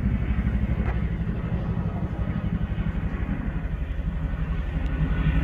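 Boeing CH-47 Chinook tandem-rotor helicopter flying over: its rotor blades make a rapid, steady low pulsing beat, growing slightly louder near the end.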